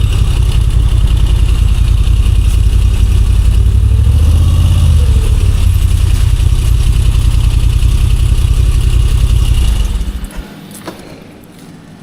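A motorcycle riding, its engine running under a loud, heavy low rumble, with a brief rise and fall in pitch around the middle. About ten seconds in, the loud rumble drops away sharply, followed by a single click and a much quieter background.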